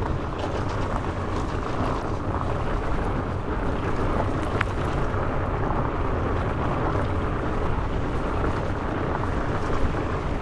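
Wind rushing over the microphone and the wide tyres of a Trek Farley fat bike, on 4.8-inch Maxxis Minion tyres, rolling fast over loose gravel double track. A few small knocks and clicks come from the bike over the rough ground.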